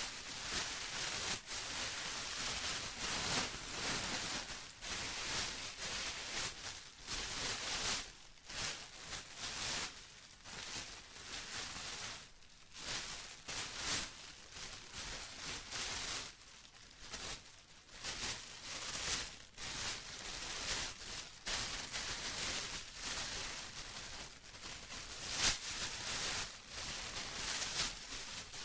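Plastic being crumpled and rustled by hand, a continuous irregular crackle that swells and eases every second or so.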